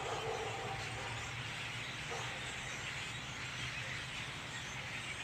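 A large flock of birds in trees calling all at once, a continuous chattering din, over a low steady hum.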